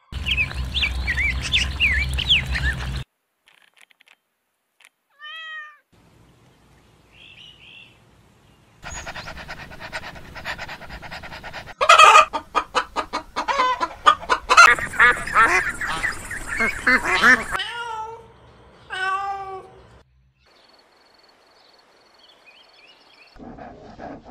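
Several separate animal-call recordings cut one after another, with short silent gaps between them. The sequence opens with high chirping calls, then brief single calls, then a long, loud stretch of rapid repeated calls in the middle, and a falling pitched call near the end.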